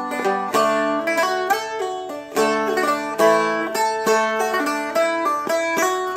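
Seagull Merlin M4 strumstick picked in a quick run of single melody notes, one note per sung syllable, with the other strings ringing underneath.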